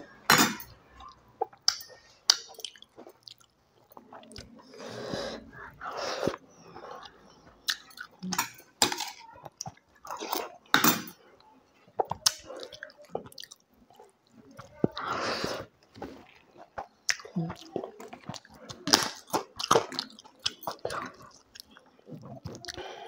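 A person chewing food close to a clip-on microphone, with wet mouth sounds, crunching and many sharp smacking clicks coming in uneven bursts.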